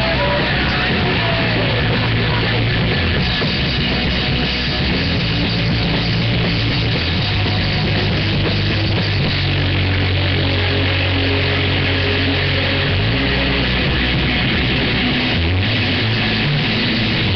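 A live rock band playing loud, full-band music with sustained bass notes under a dense wall of guitar and cymbals. It is recorded poorly on a webcam microphone, so the sound is muddy and distorted.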